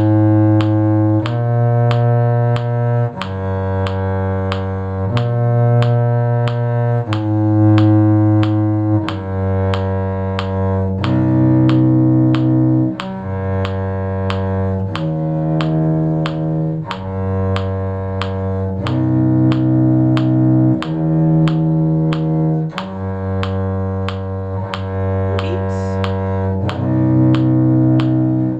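Bowed strings in a low, cello-like range play a simple tune in G major in long held notes, each about two seconds. A steady click of about two beats a second, like a metronome, runs under the notes.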